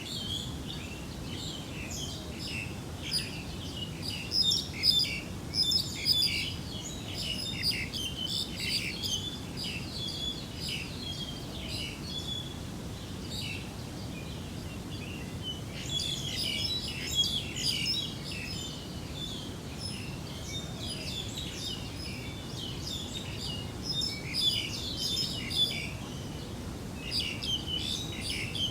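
Several small birds chirping and trilling, a busy chorus of short calls that comes in bouts and thins out for a few seconds near the middle, over a steady low hiss.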